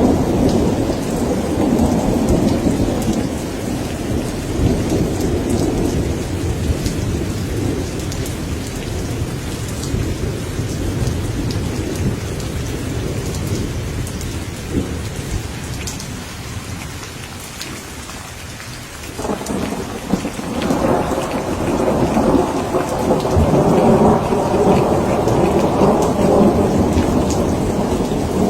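Thunderstorm: steady rain with rolling thunder. The rumble eases about two-thirds of the way through, then a fresh roll of thunder breaks in and builds toward the end.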